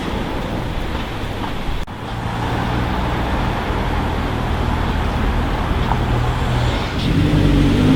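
Car engines in street traffic over steady road noise. A low, steady engine note, then near the end a louder engine accelerating, its pitch rising.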